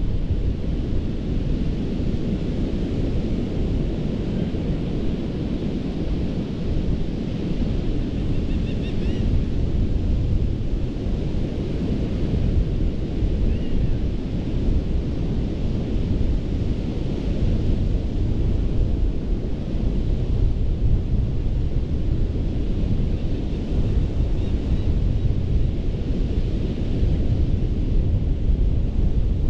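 Ocean surf washing onto a sandy beach: a steady, even rumble of waves with no single break standing out.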